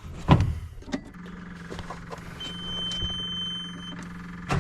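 A thump, then a skid steer's engine running with a steady hum. A high warning beep sounds over it for about a second and a half in the middle.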